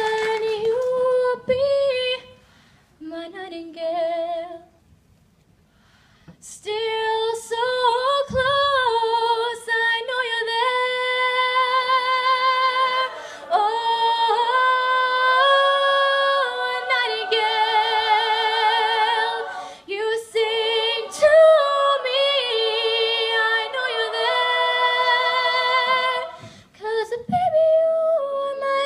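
Female voices singing long held notes in harmony, without clear words and with little or no accompaniment. There are a few short phrases, a brief pause about five seconds in, then a long run of sustained notes.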